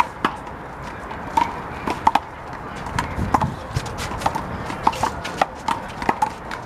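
One-wall handball being played with a big blue rubber ball, smacked by hands and bouncing off the wall and the concrete court. The result is a quick, irregular run of sharp slaps.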